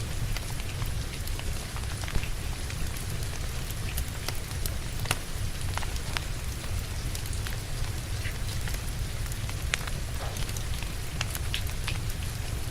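Steady rain with a low rumble underneath, mixed with a wood fire crackling: scattered sharp pops and clicks at uneven intervals.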